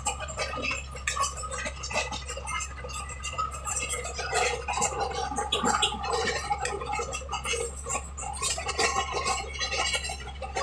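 Tracked bulldozer travelling: a steady low engine hum under dense, irregular rattling and scraping from the running gear.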